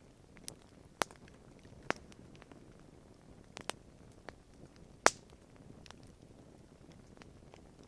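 Wood campfire crackling: irregular sharp pops and snaps over a faint low hiss, the loudest pop about five seconds in.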